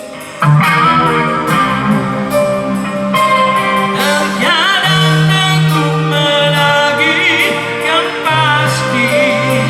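Live rock band playing an instrumental passage: an electric lead guitar line with bent, wavering high notes over bass and drums. The band comes back in loudly about half a second in.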